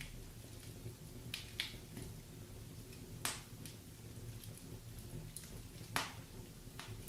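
Wood fire burning in a fireplace, crackling with scattered sharp pops, two louder ones near the middle and toward the end, over a low steady rumble.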